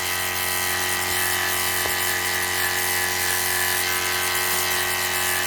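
Small 12-volt DC water pump of a portable propane tankless water heater running steadily with a constant hum, pushing water through the heater.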